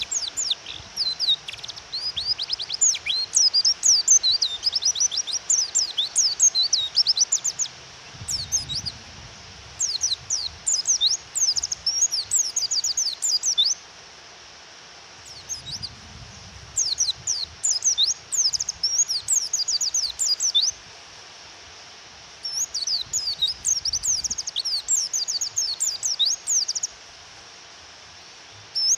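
Female white-eye (pleci) calling: rapid high twittering chirps in bursts of several seconds, broken by short pauses, over a steady hiss of rain.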